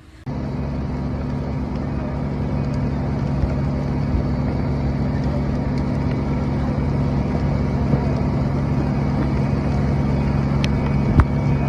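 An engine running steadily, a low hum over a broad rumble, with a couple of sharp cracks near the end.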